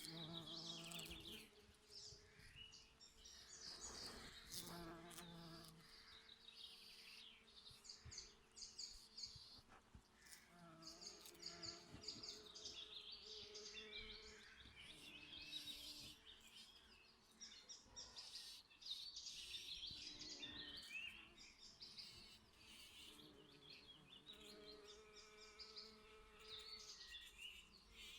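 Bees buzzing in short, recurring passes, with birds chirping and singing throughout; all faint.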